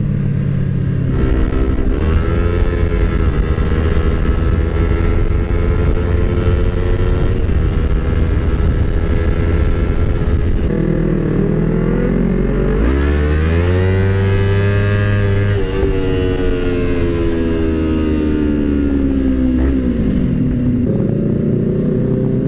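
Yamaha R25 motorcycle's 250 cc parallel-twin engine under way, heard through an aftermarket exhaust. The engine note holds fairly steady, then revs up sharply a little past halfway. It falls away over several seconds as the bike slows and settles to a steady note again near the end.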